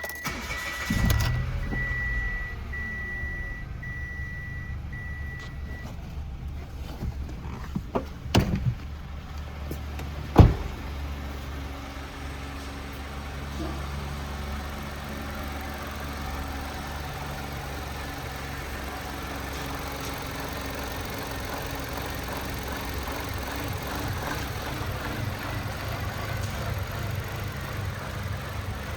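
2019 Mitsubishi Mirage's 1.2-litre three-cylinder engine starting about a second in, then idling steadily. A short high beep repeats for the first few seconds. A few clicks come around eight seconds in, and a single sharp knock, the loudest sound, about ten seconds in.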